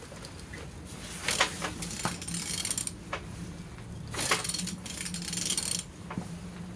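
Used engine being turned over by hand with a wrench on the crankshaft: metallic clicking and rasping in two longer stretches with sharp clinks between, over a steady low hum. The engine turns freely.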